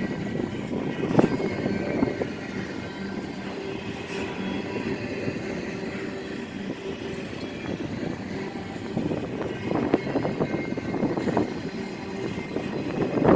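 CSX train rolling past, a steady rumble of wheels on the rails with a few louder knocks here and there.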